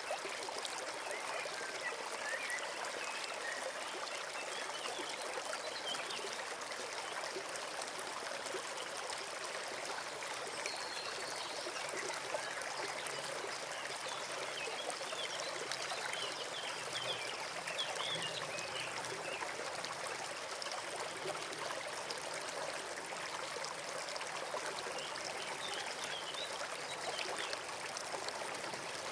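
Small forest stream running steadily, an even trickling of water, with a few faint short high chirps now and then.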